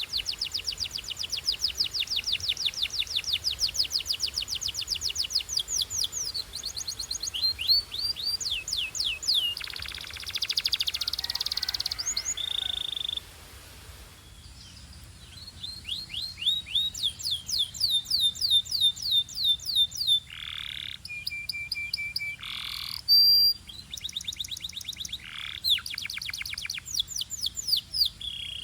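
Belgian canary singing long, fast, even trills of rapidly repeated notes. It pauses about halfway through, then resumes with more trills mixed with a few buzzy downward slurs and short held whistles.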